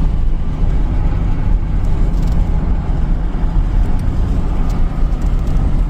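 Steady road and engine rumble inside a moving pickup truck's cab, with a few low droning tones.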